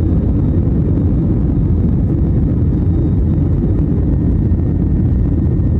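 Steady low rumble of an airliner heard from inside the cabin: engines and airflow.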